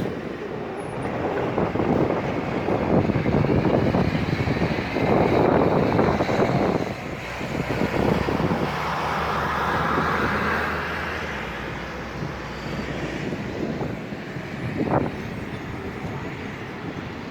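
Storm wind blowing in strong gusts, buffeting the microphone with a low rumble that eases after about thirteen seconds.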